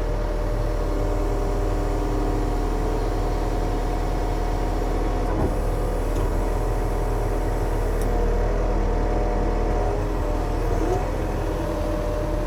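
Yanmar diesel engine running steadily while the machine lifts a heavy load, with a steady drone whose tones shift in pitch a few times.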